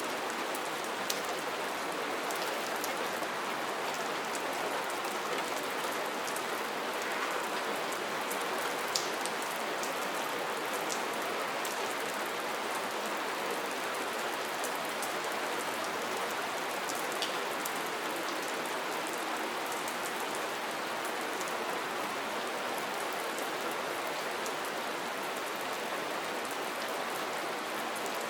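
Steady soft rain falling, an even hiss with a few sharper single drop ticks now and then.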